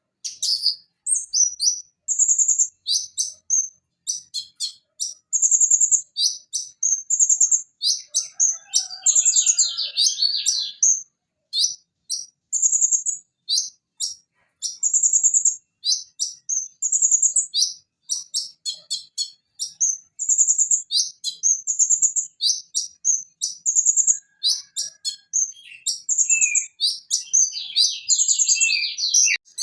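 Van Hasselt's sunbird (konin, Leptocoma sperata) singing a continuous high-pitched twittering song of rapid short chirps, with busier trilled passages about nine seconds in and again near the end.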